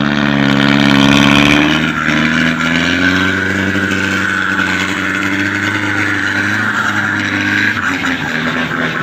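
Truck engine working hard under load, revving up over the first second or so, easing off, then holding a steady high pitch.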